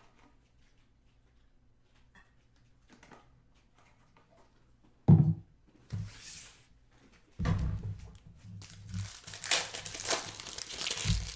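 Trading card pack wrappers crinkling and tearing as packs are opened, after a quiet stretch and a single loud thump about five seconds in.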